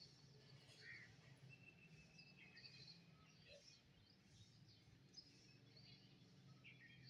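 Faint birdsong: several birds giving short chirps and a held whistled note, over a low steady hum.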